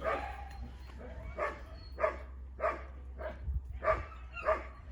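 A dog barking repeatedly at a steady pace, about six barks roughly half a second to a second apart.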